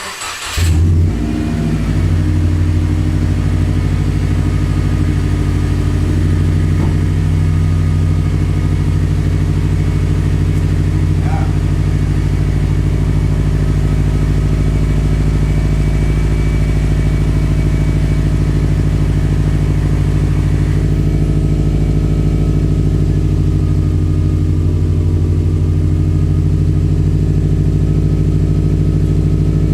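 2008 Subaru WRX's turbocharged 2.5-litre flat-four (EJ255) cold-started through a muffler-delete exhaust: a brief crank that catches within about a second, then a loud, steady idle.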